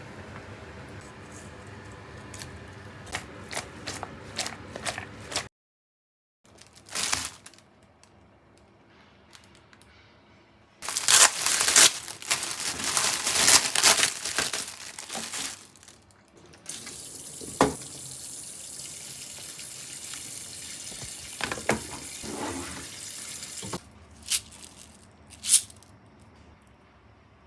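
Kitchen tap water running into a sink while coriander is rinsed, in several separate stretches with a brief dead cut between them; the loudest stretch falls in the middle. Small clicks and rustles of handling come between the runs of water.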